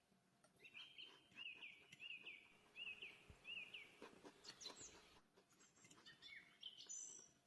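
A small bird chirping faintly: a quick run of about five repeated chirps, then a few scattered higher notes and light clicks.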